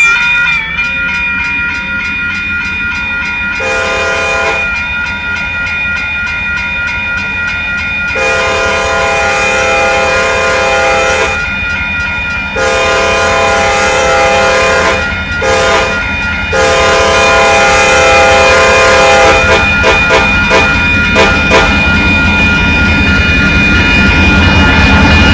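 Locomotive horn sounding a series of chord blasts over the rumble of a train: a short blast, then long, long, short, long, the standard grade-crossing signal. The train's rumble grows louder near the end, with rail clicking as it comes closer.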